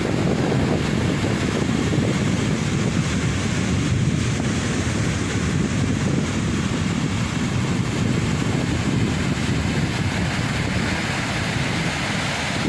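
Rough winter sea surf breaking in a steady wash, mixed with wind buffeting the microphone.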